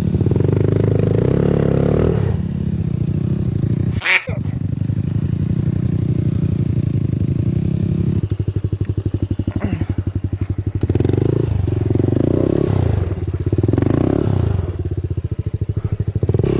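Dirt bike engine running on a trail ride, revving up and easing off repeatedly, with a brief sharp crack about four seconds in.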